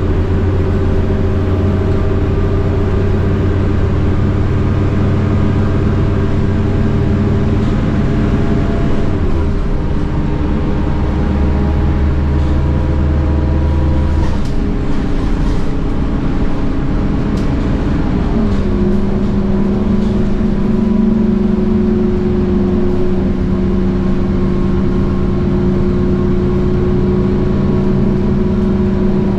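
Scania K230UB bus's DC9 8.9-litre diesel engine and ZF Ecomat six-speed automatic gearbox driving under way, a steady drone that steps in pitch at gear changes three times, with a rise in engine note near two-thirds of the way through that fits a kickdown.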